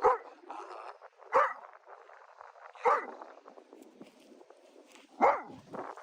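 A dog barking in single sharp barks, four of them, about a second and a half apart.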